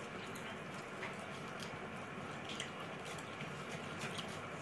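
Close-miked eating sounds: chewing and soft mouth clicks while eating rice and mutton curry by hand, with fingers squishing rice on the plate, as a handful of faint scattered clicks over a steady hiss.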